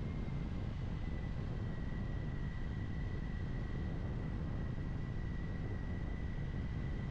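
Kawasaki Ninja 400 parallel-twin motorcycle cruising at a steady speed, its engine and wind rushing over the helmet microphone making a constant low rumble, with a thin steady high whine above it.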